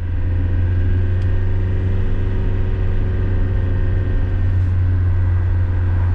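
A vehicle engine running at a steady speed: a constant low drone with faint steady tones above it.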